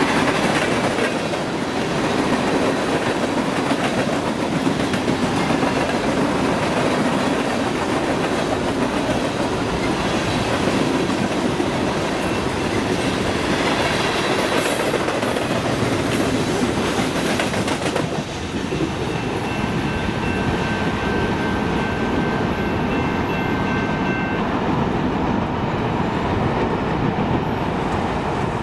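Freight train cars rolling past at close range: a steady rumble with the clatter of steel wheels over rail joints. About two-thirds of the way through, a thin, steady high tone sounds over it for around five seconds.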